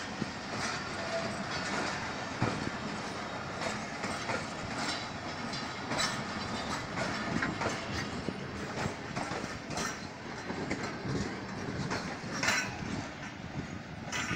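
Pakistan Railways passenger coaches rolling past as the train departs, their wheels clicking repeatedly over the rail joints.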